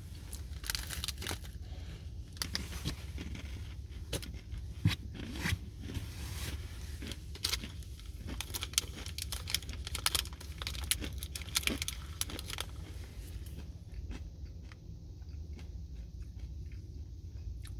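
A person chewing a dry, crunchy, crumbly peanut nut bar, with many irregular crisp crunches close to the microphone. The crunching thins out near the end.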